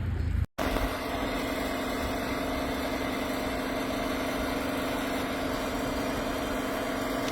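Engine running steadily at idle, a vehicle's motor with a constant hum. It cuts in about half a second in, after a brief dropout.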